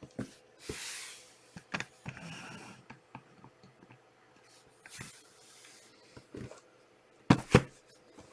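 Trading cards being handled: cards and plastic sleeves sliding and swishing, with small clicks and two sharp taps on the table near the end.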